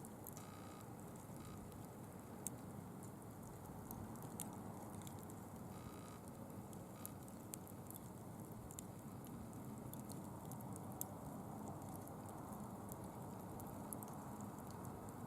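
Small bonfire burning with a steady low hiss and scattered sharp crackles and pops.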